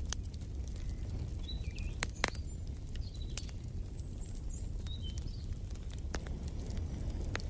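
Wood fire crackling in a fireplace: a steady low rumble of flames with scattered sharp pops, the loudest about two seconds in. Short bird chirps come several times through the middle.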